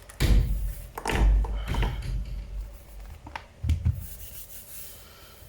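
Rubbing and scraping of hands handling a laptop's parts, in several rough strokes over the first two seconds, with a sharp knock a little past three seconds in.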